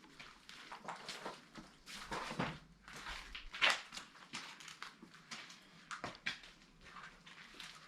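Scattered scuffs, crunches and soft knocks in a small echoing room, irregularly spaced, with a louder one about two and a half seconds in and another a little past three and a half seconds.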